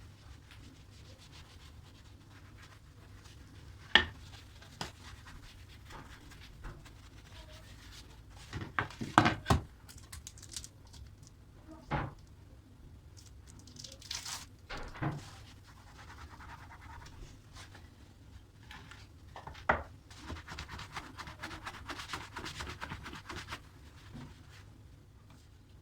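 Hand cleaning of a kitchen cabinet: scattered knocks and clatter of items and cabinet parts being handled, then a few seconds of rubbing and scrubbing on a surface near the end.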